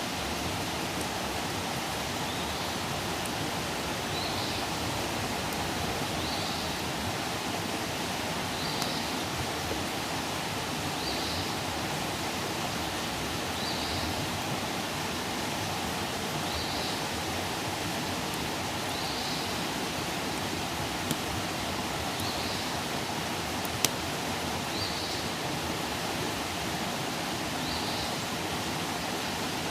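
Campfire burning with a steady hiss, broken by a few sharp crackling pops; the loudest pop comes near the end. A short high chirp repeats about every two and a half seconds behind it.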